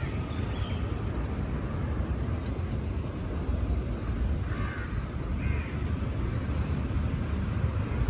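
Steady low outdoor rumble with two short bird calls about halfway through, roughly a second apart.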